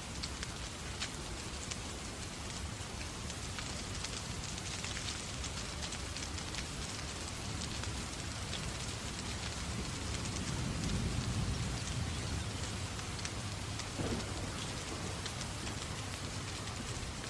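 Steady rain falling, with many small sharp ticks of drops throughout. A low rumble swells and fades about ten to twelve seconds in, and a single sharp pop comes about fourteen seconds in.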